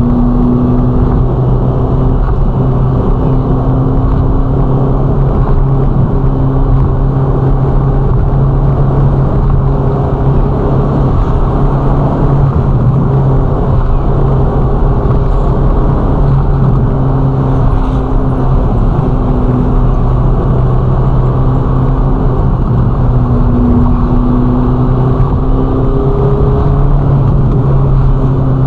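Ferrari Roma's twin-turbo V8 running at a steady cruise: a constant engine drone whose pitch rises and dips only slightly, over a dense rush of road noise.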